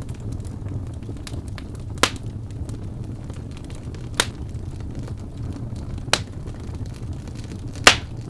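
Fire crackling: a steady low rumble with four sharp pops about two seconds apart, the last one the loudest, and faint small ticks in between.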